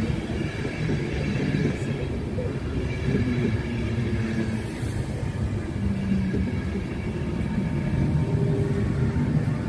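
InterCity 225 Mark 4 coaches passing close at speed: a steady rumble of wheels on rail with rushing air.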